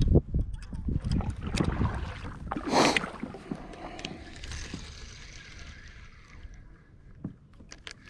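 Wind buffeting the microphone on a fishing kayak, in gusts, with water moving around the hull. There is a short, loud rushing noise about three seconds in, then scattered small clicks and knocks as it quietens.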